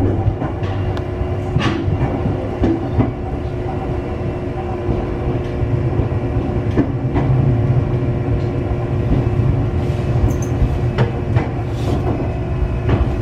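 Ohmi Railway electric train, a former Seibu car, running on single-track line with a steady low rumble and scattered sharp clicks from the wheels over the rails.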